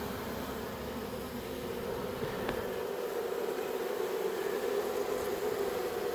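A freshly caught swarm of honey bees buzzing in a steady hum.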